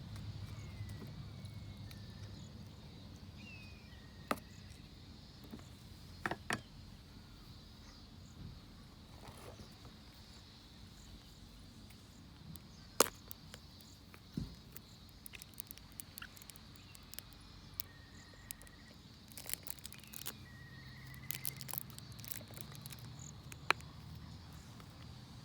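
Outdoor ambience of insects trilling steadily, with a few faint short chirps and scattered sharp clicks and taps; the loudest click comes about halfway through.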